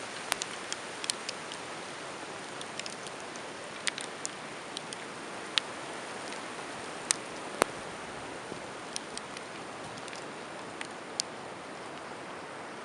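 Blizzard in a forest: a steady hiss of wind and blowing snow, with scattered sharp ticks at irregular intervals.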